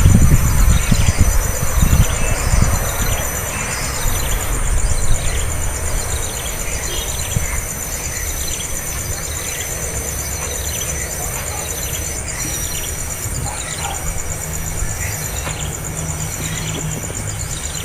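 Baby birds cheeping, short high calls falling in pitch repeated roughly every half second, over a steady high insect drone. Low rumbling in the first few seconds.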